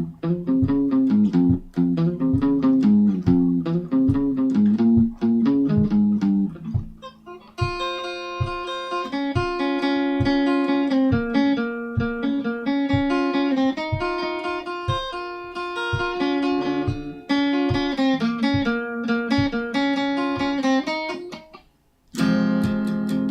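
Solo guitar playing a part that combines bass lines and guitar lines: a low picked riff of evenly spaced notes, then from about seven seconds higher ringing notes over it. The playing stops briefly near the end, then the low riff resumes.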